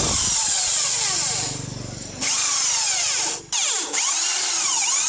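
Handheld power tool running against steel, a loud high hiss laced with tones that sweep down and up. It eases off briefly about two seconds in and cuts out for a moment halfway through before picking up again.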